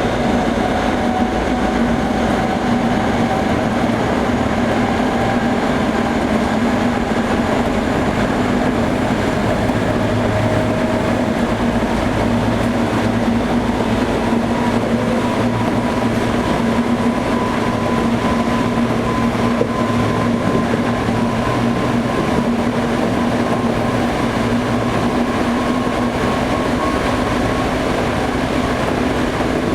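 Interior running noise of a Toei 5300 series electric train under way: a steady rumble of wheels on the track, with a hum and a faint whine that rises slowly in pitch.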